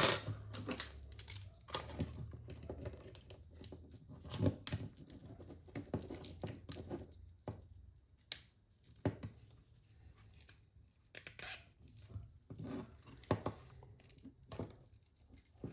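Scattered clicks, taps and short rustling scrapes of small tools and plastic RC car parts being handled, at irregular intervals and thinning out in the second half, over a faint low hum.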